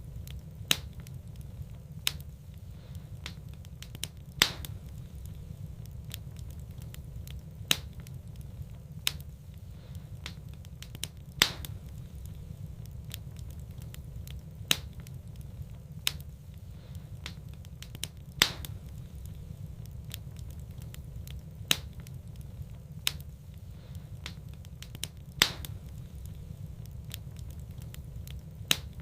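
Wood fire burning in a fireplace: sharp crackles and pops every second or two over a steady low rumble.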